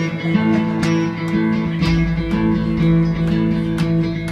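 Live band music: guitars strumming a slow instrumental intro to a country song, with a low bass note coming in about two seconds in.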